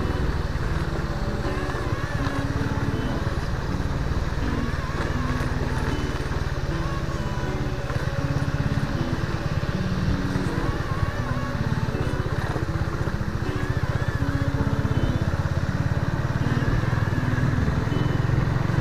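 Suzuki Raider 150 FI's single-cylinder four-stroke engine running steadily as the motorcycle rides along at moderate speed.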